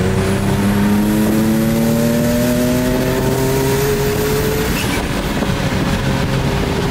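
Infiniti G37's turbocharged V6 pulling under acceleration, its note rising steadily for about five seconds, then dropping in pitch and settling.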